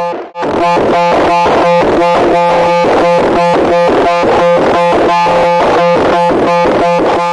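Loud, harsh pulsing noise, about four pulses a second over a steady low drone, with a brief break just after the start.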